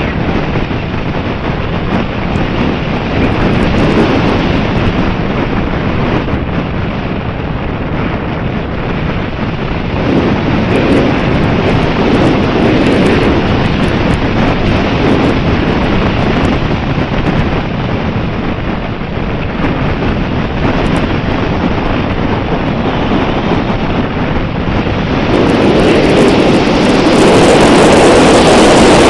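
Strong wind buffeting the microphone, a loud, rough rushing that swells and eases.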